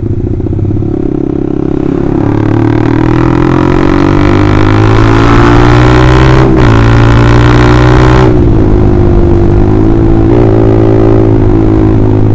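Honda CBR150R's single-cylinder engine running through an Austin Racing aftermarket exhaust under riding load. The revs climb steadily for several seconds, there is a quick gear change about six and a half seconds in, then the revs drop and hold fairly steady.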